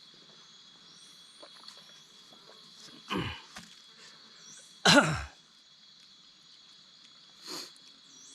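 A person coughing three times, the second cough the loudest. Behind it runs a steady high-pitched insect drone with faint repeated chirps.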